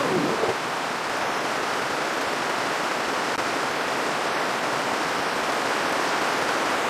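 Steady rushing hiss of heavy rain, even and unbroken throughout.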